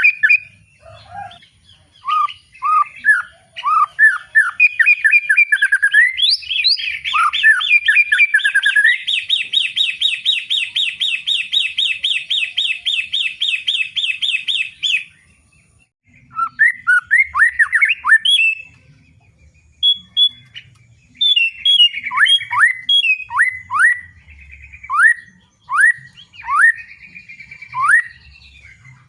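White-rumped shama (murai batu) in full, loud song. It opens with varied whistled notes, then runs into a long rapid trill of evenly repeated notes that breaks off suddenly about halfway through. After a short pause comes a series of sharply falling whistles.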